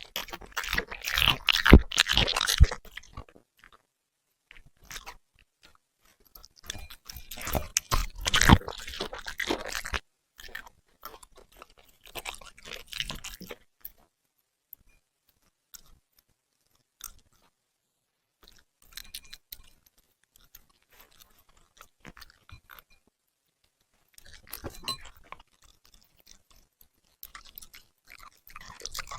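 A puppy chewing and crunching food, in bursts of a few seconds with quiet pauses between; the loudest bouts are at the start and about eight seconds in.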